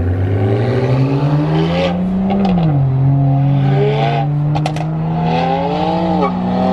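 Car engine accelerating hard. The pitch climbs, drops sharply at a gear change about two and a half seconds in, then pulls steadily upward again. A few sharp clicks come partway through.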